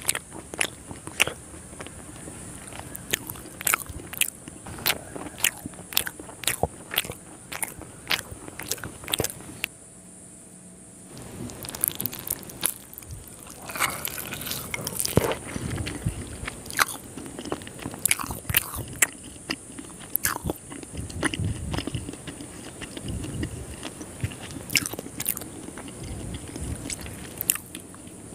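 Close-miked eating of soft Indian milk sweets: wet mouth clicks and chewing. Sharp smacking clicks come thick for the first ten seconds, then a short pause, then denser, squelchier chewing.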